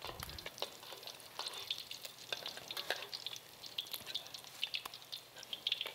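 Crab omelet frying in hot oil in a wok: a light, irregular crackling sizzle.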